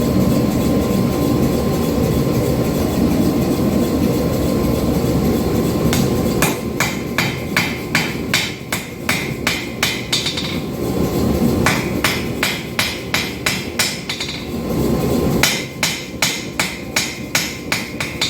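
Pneumatic power hammer (air hammer) drawing out a hot steel knife blank. About six seconds of steady rushing machine noise give way to three runs of quick, even blows, about three a second, with short breaks between the runs.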